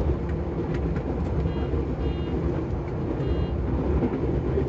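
Running noise inside the driver's cab of a Tobu 70000 series electric train: a steady low rumble of wheels on rail, with a few faint clicks in the first second or so. Three short high beeps sound in the middle.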